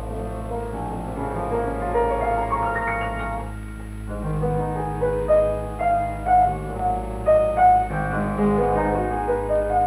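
Piano music soundtrack: a melody of held notes stepping up and down over chords, with a short lull a little after three seconds and more accented notes in the second half. A steady low hum runs underneath.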